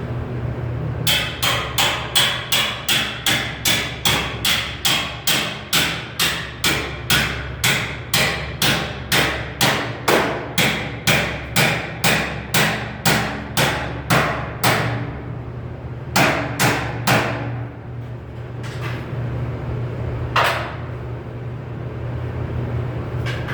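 Hammer striking sheet metal in a steady run of about two blows a second for some fourteen seconds, the early blows ringing, then three more spaced blows. A steady low hum runs underneath.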